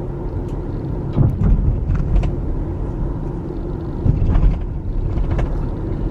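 Steady low rumble of a car driving, heard from inside the cabin, with several light knocks.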